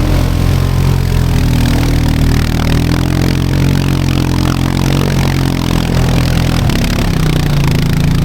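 Four-wheeler (ATV) engine running close by, its pitch rising and falling slightly with the throttle, and its note changing about two-thirds of the way through.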